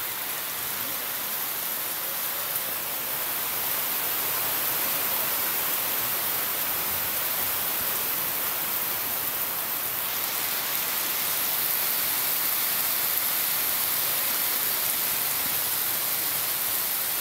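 Heavy rain pouring down onto a street, a dense steady hiss that grows a little louder about four seconds in and again around eleven seconds.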